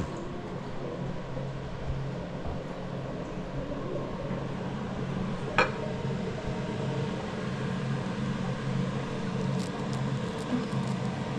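Steady low mechanical hum of a running kitchen appliance or fan, with a single sharp clink of a utensil or dish about halfway through and a few faint ticks near the end.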